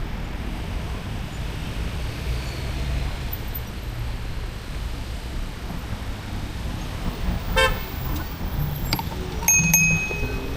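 Steady wind and riding rumble on the microphone of a moving e-bike. About three-quarters of the way through comes a brief horn toot, followed near the end by a short high ringing tone with a few sharp clicks.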